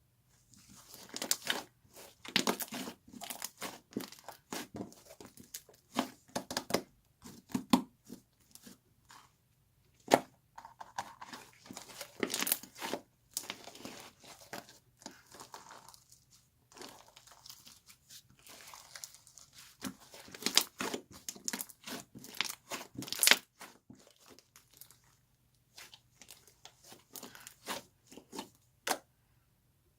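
Irregular crinkling and crackling, like material being crumpled or torn by hand, coming in spells with short gaps and stopping about a second before the end.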